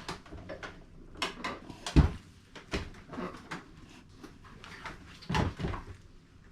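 Objects being handled: scattered clicks and small knocks, with a sharp knock about two seconds in and a dull thump around five and a half seconds.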